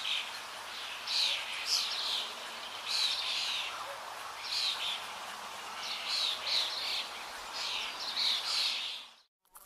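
Birds chirping: clusters of short, high, quick chirps come about once a second over a steady hiss, and cut off abruptly near the end.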